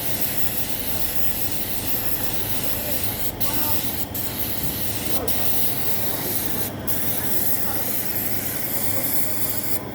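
Paint spray gun hissing steadily as motorcycle body panels are spray-painted. The hiss briefly dips several times, as the trigger is let off between passes.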